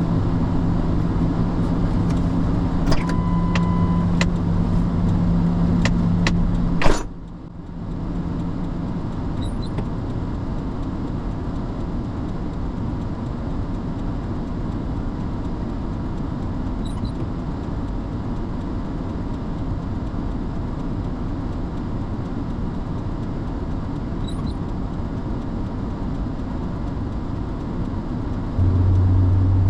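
Truck engine running steadily. There is a short beep about three seconds in, and a sharp knock about seven seconds in, after which the engine sound turns lower and rougher.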